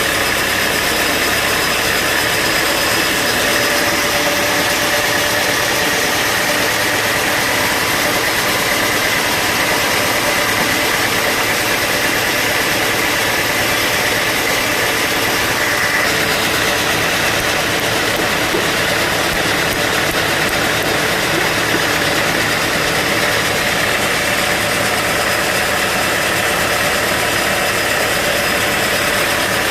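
Band sawmill running steadily: a constant machine noise with a steady high whine over it.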